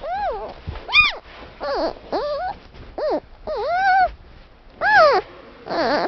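An animal giving a series of about eight short, high-pitched calls, each rising and then falling in pitch.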